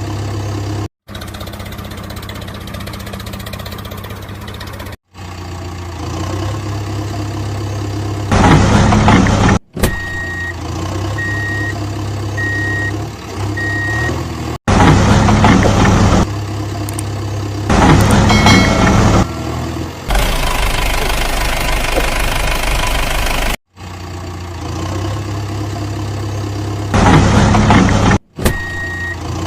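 Cartoon vehicle engine sound effects: steady engine running that cuts abruptly from clip to clip, with several louder bursts. A run of about four evenly spaced reversing beeps comes near the middle.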